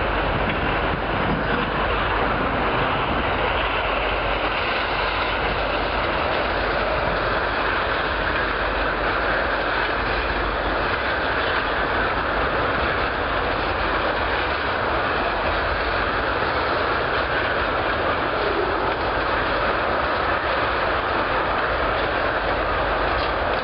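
CSX freight train of tank cars rolling past, with a steady, even noise of wheels running on the rails.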